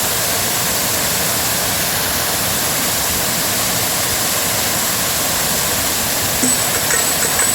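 Waterfall rushing in a loud, even roar of falling water. A faint high-pitched tone with light ticks joins near the end.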